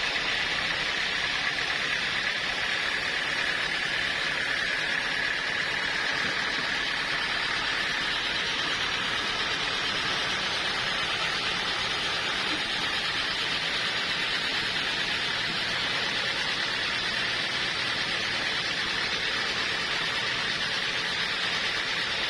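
Sawmill saw running steadily through wood: a continuous noisy whine with a steady high tone and no breaks.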